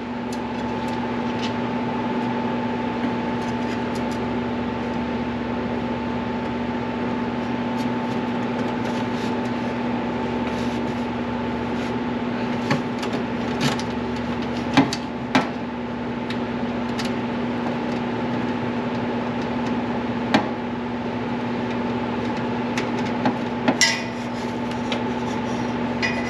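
A steady mechanical hum runs throughout, with scattered clinks and taps of hand tools on metal as brake-line fittings are worked, a small cluster of them near the middle and another near the end.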